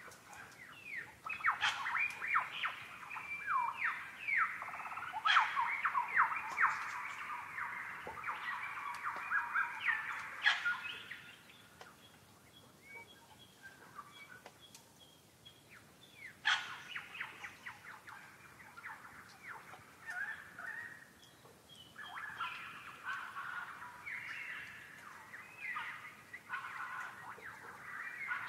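Birds chirping in dense runs of quick, chattering calls, busiest for the first ten seconds, thinning out for a few seconds, then picking up again from about halfway.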